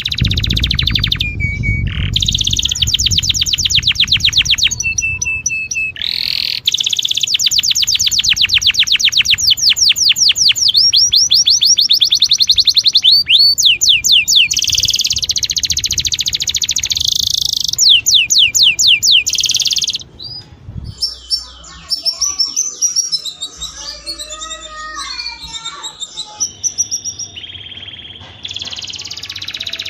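Domestic canary singing long, very fast trilled rolls, high-pitched and loud, with short breaks between phrases. About two-thirds of the way through the song turns softer and more varied, with lower, warbling notes, before the fast trills return near the end.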